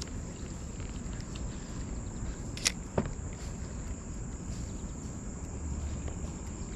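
Steady high-pitched insect trill, like crickets, over a low outdoor hum, broken by two sharp knocks about a third of a second apart near the middle.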